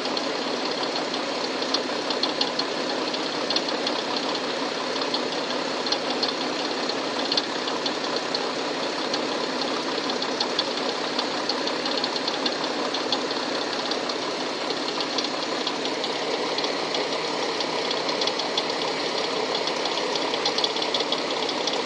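Hyundai Tucson engine running steadily with a knock in it: a fast, even tapping over the engine noise, the fault the owner is showing.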